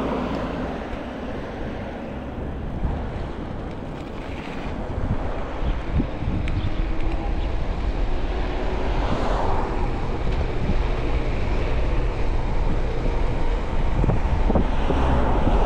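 Wind buffeting the microphone of a camera on a moving e-bike, with low road rumble, growing louder as the ride picks up speed.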